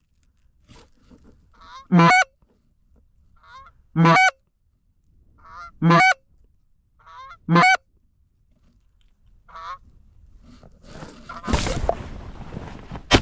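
Canada goose honks: five loud two-part honks about two seconds apart, each with a softer note leading in, then a fainter call. Near the end comes a rustling noise and a single sharp click.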